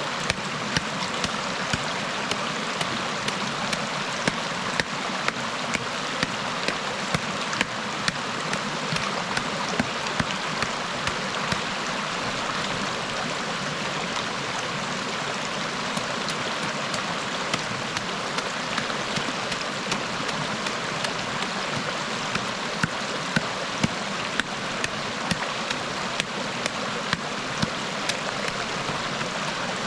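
Steady rush of flowing river water, with short sharp taps at irregular intervals, about one or two a second.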